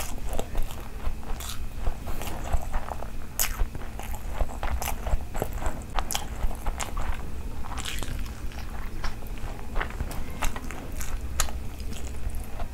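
Close-miked chewing and wet mouth sounds of someone eating rice and curry by hand, with irregular sharp smacks and clicks. Fingers squish and mix rice and gravy on a steel plate.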